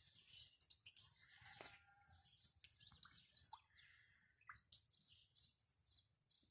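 Faint birdsong: many short, high chirps and calls, with a few sharp clicks among them.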